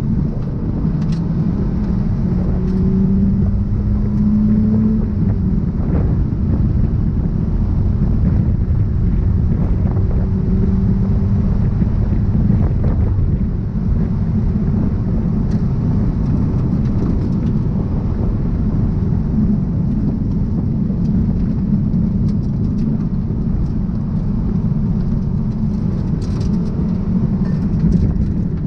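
Mazda NA MX-5's four-cylinder engine running hard with heavy road and wind noise inside the cabin. The engine note rises in pitch twice in the first dozen seconds as the car accelerates.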